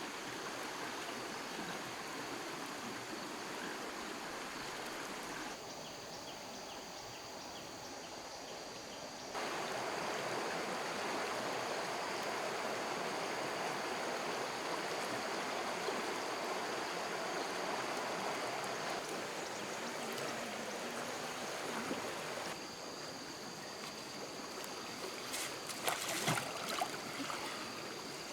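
Flowing stream water rushing steadily, shifting suddenly in loudness a few times, with a brief cluster of knocks or splashes near the end.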